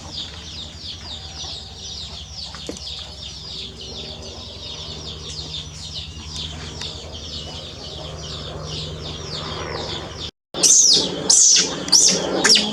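Rapid, repeated, high-pitched falling chirps from an animal, about four a second. After a short break near the end come several much louder, high falling squeals.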